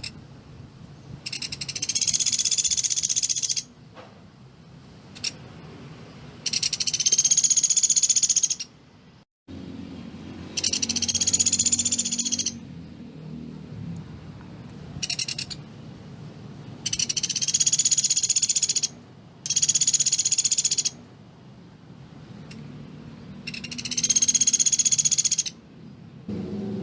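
Pelatuk beras woodpecker calling: a series of fast, high rattling trills of about two seconds each, repeated about seven times with short pauses between them.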